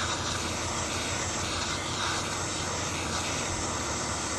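Gas torch flame hissing steadily as it heats the aluminium around a broken bolt, to make the metal expand and free the bolt.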